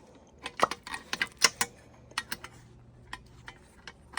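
Irregular clicks and light taps of small metal and plastic parts being handled while an exhaust fan motor is taken apart and cleaned, the loudest about one and a half seconds in.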